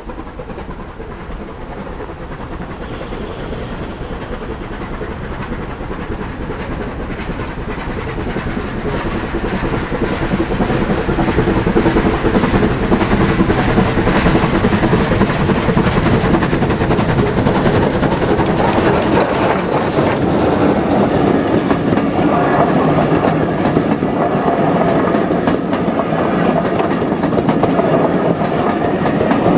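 A steam-hauled train approaching and running past, growing louder over the first ten seconds or so and then staying loud, with its wheels clicking over the rail joints.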